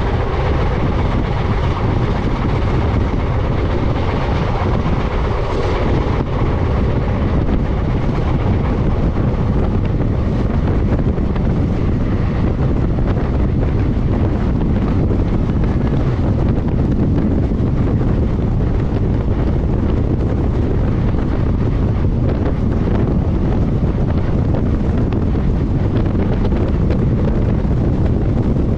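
Wind rushing over the microphone, on top of the steady rumble of a moving passenger train's coaches running on the track.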